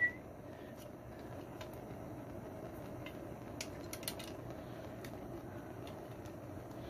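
Steady low rush of a torch flame heating a hard steel part to make it soft enough to bend, with a few faint clicks.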